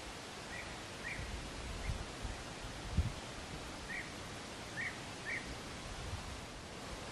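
A small bird gives five short chirps, two early and three in the middle, over a steady outdoor hiss, with a brief low thump about three seconds in.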